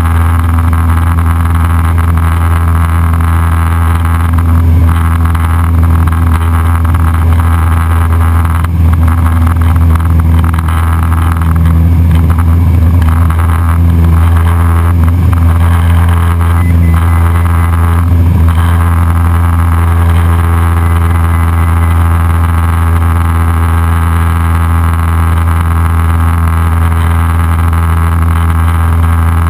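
Cessna 172SP's four-cylinder Lycoming engine and propeller droning steadily in cruise, heard loud inside the cockpit.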